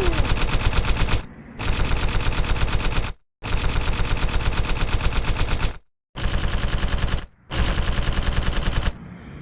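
Rapid, evenly spaced popping bangs, about eight to ten a second, like machine-gun fire, in several stretches that cut off abruptly into silence and start again.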